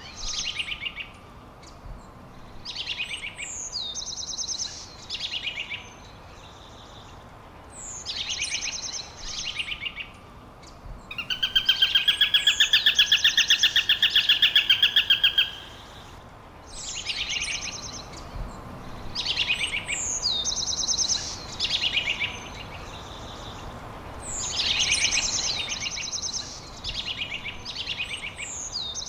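Songbirds singing: a short, high phrase that starts with a quick downward sweep, repeated every two to three seconds over a steady faint hiss. About eleven seconds in, a louder, rapid trill lasts some four seconds.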